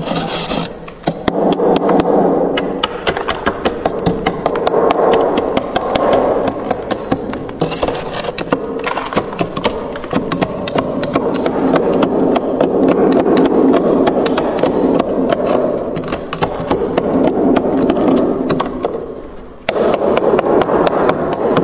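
Freezer frost crunching and crackling close to the microphone: a dense, continuous run of rapid crackles, broken by a brief pause near the end.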